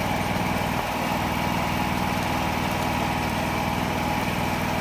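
Generator engine running steadily at a constant speed, an even engine hum with no change in pitch.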